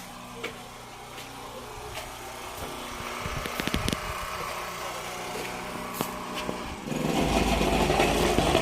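An engine running, with a much louder rush of noise and low rumble from about seven seconds in.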